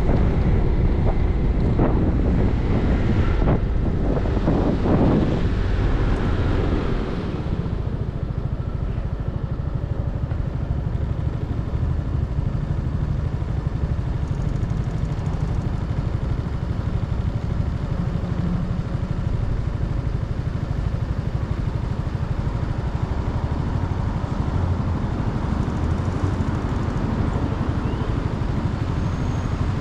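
Motorcycle riding, with wind buffeting the microphone during the first seven seconds or so. The wind then dies down, leaving the engine's low, steady running.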